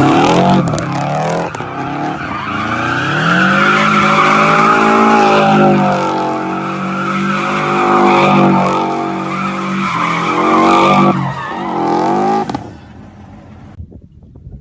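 Turbocharged car engine revving hard under load, its pitch climbing, dropping briefly and climbing again several times as if through gear changes. It falls away sharply about twelve seconds in, leaving faint wind noise.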